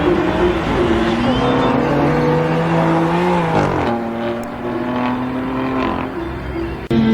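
Drag-racing car's engine at full throttle, its pitch climbing, then dropping sharply at a gear change about halfway through before pulling again; the sound cuts off abruptly near the end.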